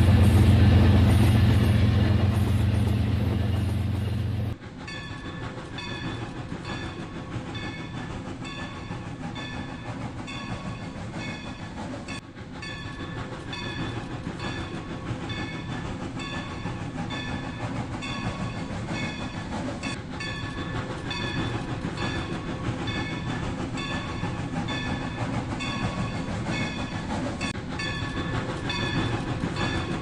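Rail King toy train running. A loud low hum cuts off about four and a half seconds in, followed by a steady, evenly repeating clatter of high tones like clickety-clack.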